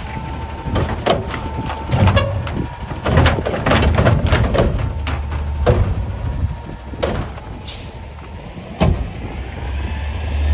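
Garbage truck working at the curb: many sharp clanks and bangs over the low rumble of its engine, thinning out near the end.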